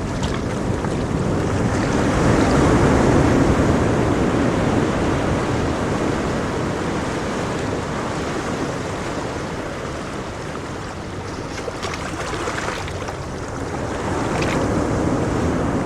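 Ocean waves washing in and out, a steady noise that swells about two seconds in and again near the end, with faint crackling around twelve to fifteen seconds in.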